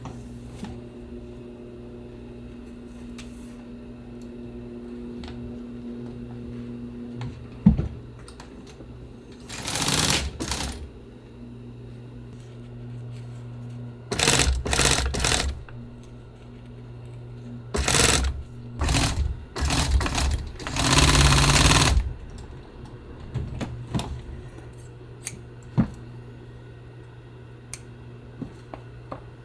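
Sewing machine stitching fabric in several short runs, starting and stopping, over a steady motor hum, with a few sharp clicks in between.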